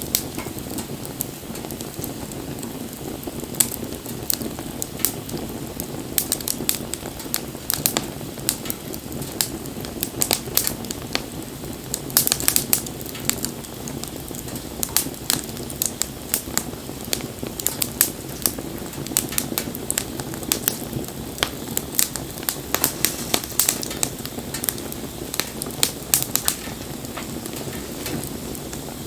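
Wood fire burning steadily with a low rumble of flame and frequent irregular sharp crackles and pops of burning wood, thicker in places.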